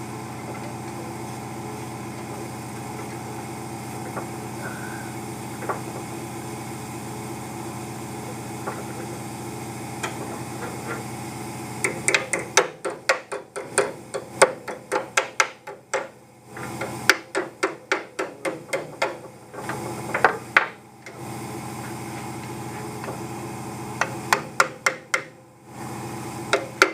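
Steady hum for about the first twelve seconds, then a hammer striking leaf spring hardware in quick runs of blows, about three or four a second, with short pauses between the runs.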